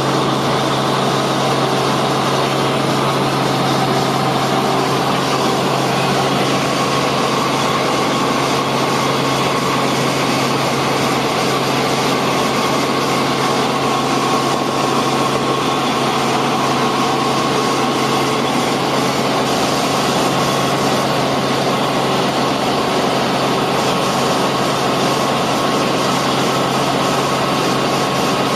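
Helicopter in flight, a steady engine and rotor drone with a strong low hum.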